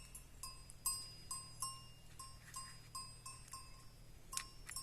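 A small bell on a goat clinking irregularly, about two or three short ringing pings a second, with a couple of sharper clicks near the end.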